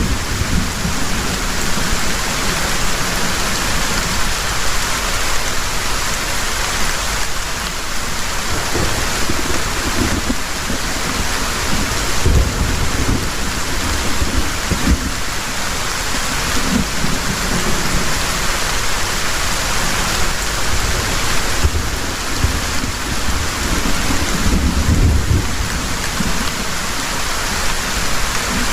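Heavy rain pouring steadily, with low thunder rumbles swelling up several times, the strongest about twelve seconds in and again near the end.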